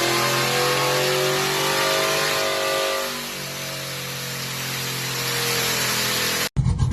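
Truck engine accelerating, its pitch climbing slightly and then dropping away and sliding lower about halfway through. Near the end it cuts suddenly to a louder, deeper engine sound.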